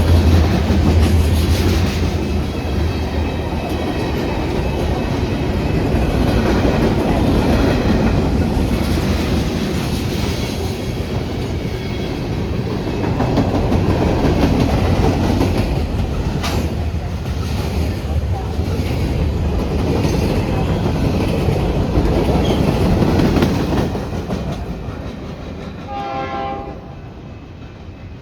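A train passing close by, with a loud, steady rumble and rattle of wheels on rail that fades away over the last few seconds. Near the end comes a short pitched tone.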